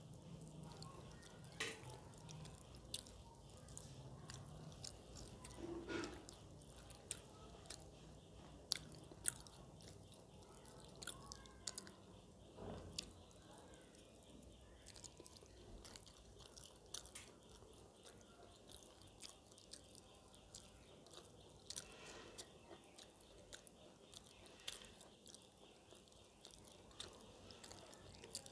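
Quiet close-up eating sounds: a person chewing a rice meal, with soft, irregular mouth clicks and smacks scattered throughout.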